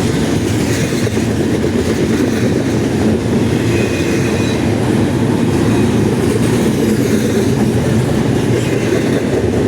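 Freight train cars rolling past close by, a steady loud rumble of wheels on rail with clickety-clack.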